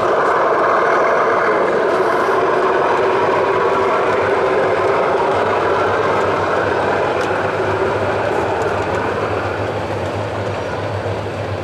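O gauge model train running on the layout: a steady rushing noise that comes up suddenly at the start and slowly fades, with a low hum joining about five seconds in.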